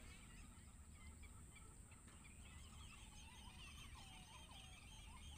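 Faint bird calls: many short chirps in quick succession, getting busier about two seconds in.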